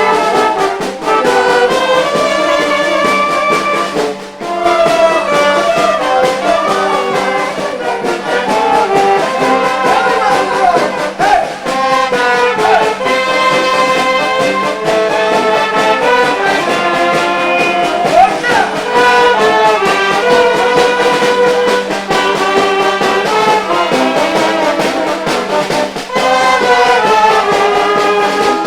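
Brass band playing a tune, trumpets and trombones carrying held notes, with a steady low hum under it.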